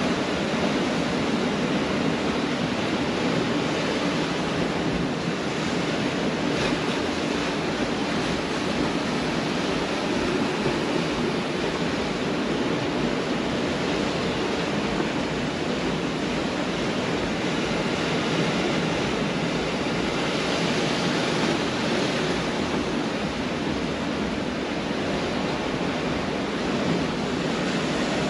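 Pacific Ocean surf breaking and washing on a beach, a steady wash of noise that swells gently every few seconds.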